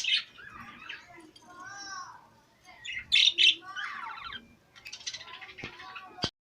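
A shop full of small caged parrots and other cage birds chirping, squawking and trilling together, with the loudest squawks at the start and about three seconds in. The sound cuts off abruptly with a click just after six seconds in.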